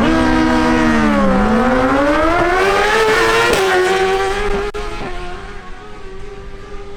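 Suzuki GSX-R1000 inline-four sport bike engine running hard on a drag strip. Its pitch sags for about a second, then climbs for about two seconds and settles on a steady high note, growing quieter after about four and a half seconds.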